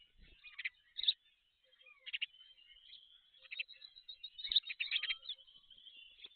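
Black stork chicks calling in the nest: high, thin squeaky chirps and a twittering chatter, typical of begging. The calls come in clusters, with a couple of short clicks among them.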